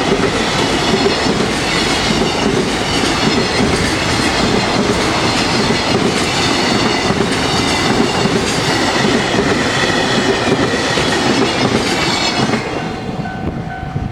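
Freight train wagons rolling past at speed, wheels clicking over rail joints with a high ringing squeal from the wheels; the noise falls away near the end.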